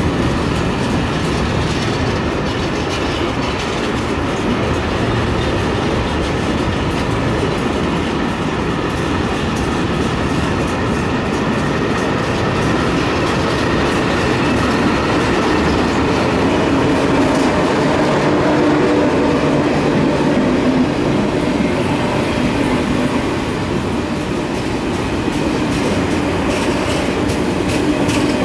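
A train running on the rails: a steady, loud rumble of wheels on track that lasts throughout.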